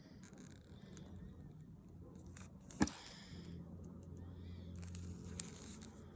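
Faint handling of a plastic supplement bottle, with small clicks and rustles and one sharp click a little before the middle, as of the cap or seal coming open.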